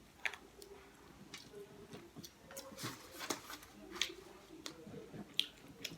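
Close-miked eating sounds: chewing spicy chicken wings, with a scattering of sharp wet clicks and smacks from the mouth.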